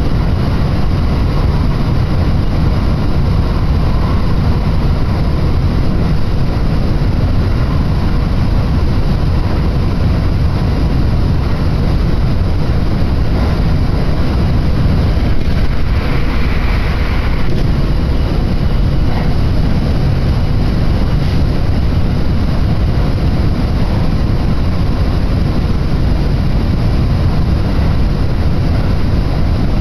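Kintetsu electric train running at speed, heard from inside the carriage: a steady, loud low rumble of wheels on rails and running gear. A faint high tone comes in briefly a little past halfway.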